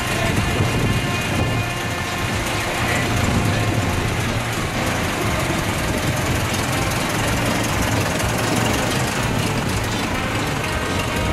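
Ford Model T's four-cylinder engine running steadily as the car pulls away.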